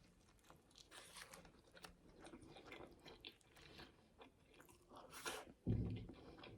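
Quiet close-up chewing of a fried chicken burger with hash brown: a run of many small crisp crunches.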